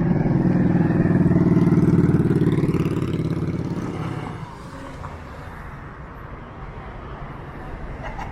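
A motor vehicle engine passing close by, loudest about two seconds in and fading away by about four seconds in, leaving quieter background street traffic.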